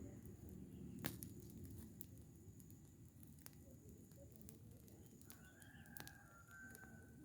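Faint crackling of a burning rubbish pile: a low steady rumble with a few sharp pops, the loudest about a second in and another near the end. A faint, distant bird call sounds over the last two seconds.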